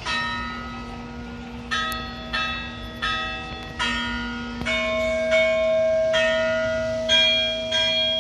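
Bells struck one after another at different pitches, about one strike a second, each note ringing on and overlapping the next like a slow bell tune.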